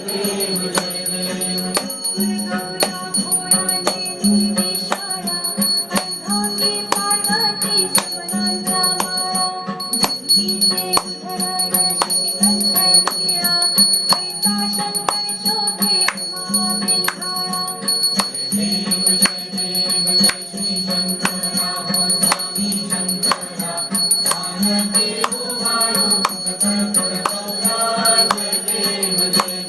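Devotional Ganesh aarti music with a steady beat of rattling, jingling percussion over sustained instrumental tones, with some singing.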